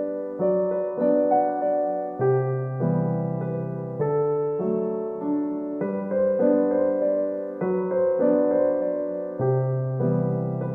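Background piano music: soft chords and a simple melody, each note struck and fading.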